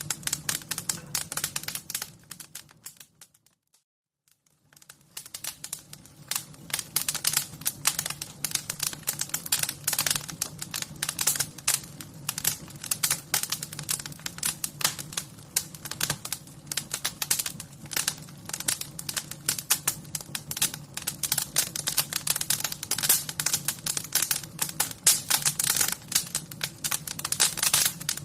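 Wood fire crackling: a dense, irregular run of sharp crackles and pops over a low steady rumble. The crackling fades to near silence about three seconds in and builds back up about two seconds later.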